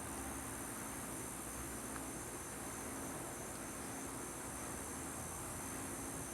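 Steady high-pitched chorus of crickets, continuous without a break, over a faint low hum.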